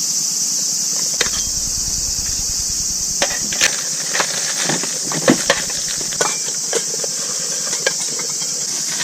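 Cicadas calling in a steady high buzz, with a scatter of light clicks and knocks in the middle.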